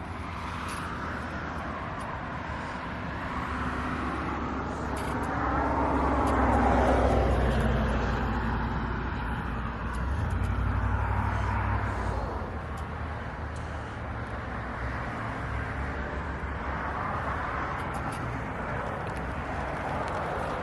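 Car and road noise: a low engine hum under a rush of tyre noise that swells and fades, loudest about six to seven seconds in and again around eleven seconds.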